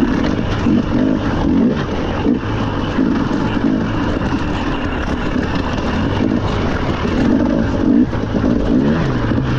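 Rally car engine running hard, its pitch rising and dropping as it pulls through the gears.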